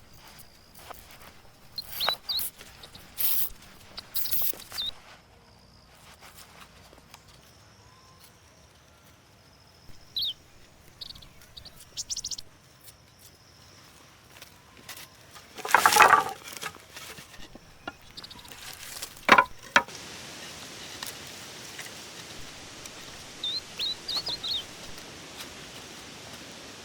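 Scattered knocks and a couple of louder hits or rustles, with a few short bird chirps.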